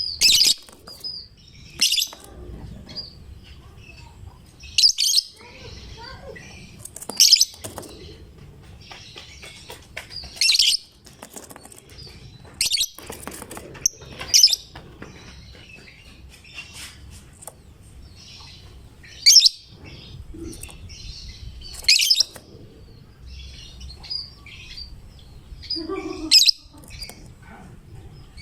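Lovebird in full, continuous song: loud, sharp, shrill chirps every two to three seconds over steady softer chattering twitter.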